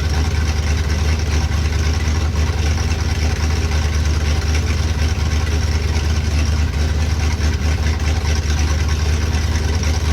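A C60 dump truck's engine running steadily at a low, even idle with a deep hum.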